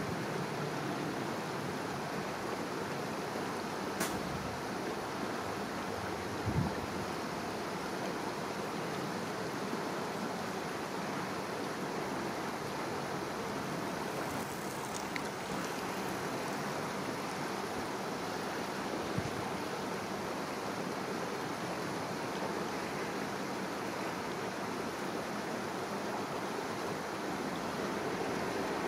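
Steady rushing of a shallow river's flowing water, with a few faint brief knocks.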